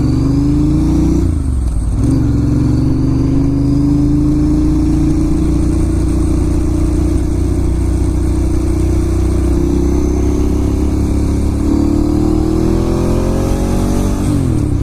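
Ducati Monster S2R 1000's air-cooled L-twin engine under way, its pitch climbing slowly as the bike gathers speed, with a gear change about a second and a half in and another near the end.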